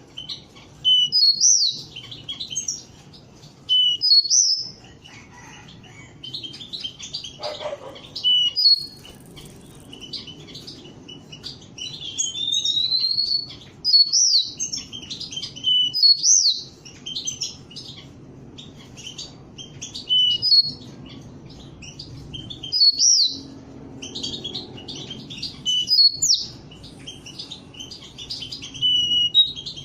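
Pet canaries chirping and calling: short, sharp, high notes and quick slurred phrases in bursts every second or two, over a low steady background hum.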